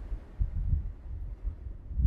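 Wind buffeting the microphone in irregular low thumps, over faint surf washing on the shore.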